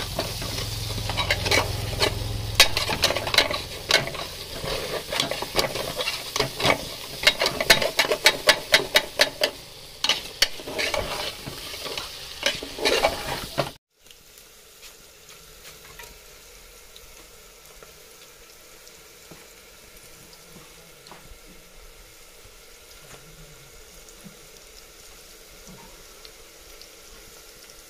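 A steel spoon stirring and scraping spiced mutton in an aluminium pressure cooker, with many sharp clinks against the pot over a frying sizzle. About 14 seconds in it cuts to a much quieter, steady sizzle of oil frying bay leaves and whole spices in the cooker.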